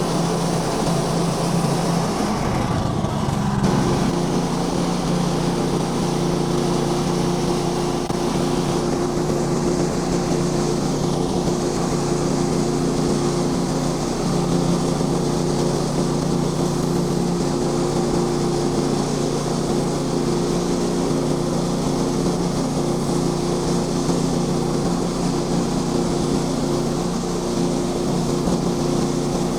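Small gasoline engine of a bandsaw sawmill running steadily under way; its note shifts upward between about two and four seconds in, then holds steady.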